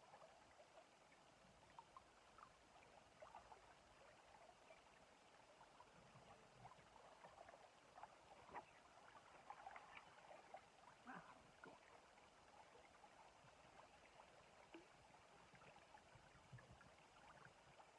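Faint lapping and trickling of river water, with scattered small ticks and splashes that come thickest about halfway through.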